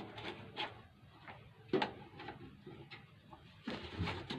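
A few light clicks and knocks of something being handled, the sharpest one about a second and a half in.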